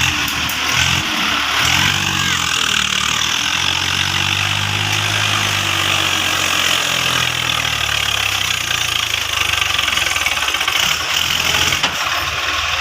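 Swaraj tractor's diesel engine running, its pitch rising and falling as it is revved, over a steady hiss.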